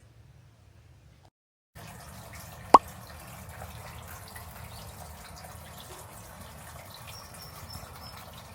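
Steady running water. About a second after it starts there is one sharp click, the loudest sound here.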